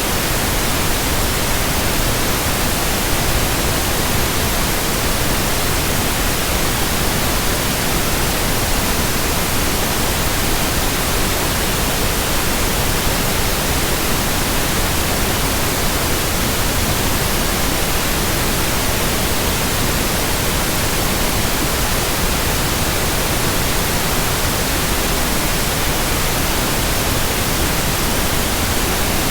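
Steady white-noise hiss spread evenly from the lowest to the highest pitches, with no tones, rhythm or change in level.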